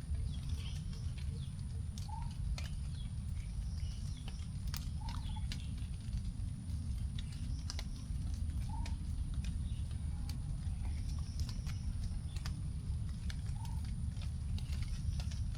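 Raindrops dripping onto forest leaves as scattered, irregular ticks after rain. A bird gives a short, low rising note about every three to four seconds, over a steady low rumble.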